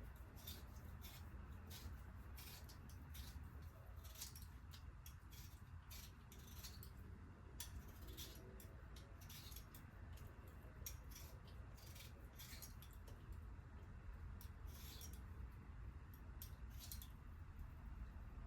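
Faint, irregular crisp ticks and scrapes of food preparation by hand, over a low steady room hum.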